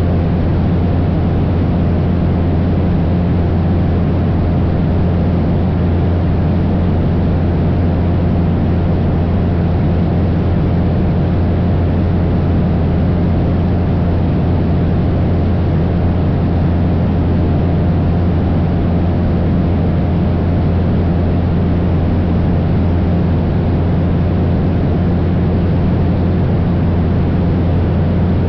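Cessna 172 light propeller plane in steady cruise: its piston engine and propeller give an unchanging drone with a strong low hum.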